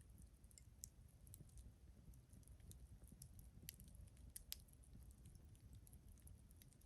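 Faint crackling of a wood campfire: irregular small pops and snaps over a low steady rumble.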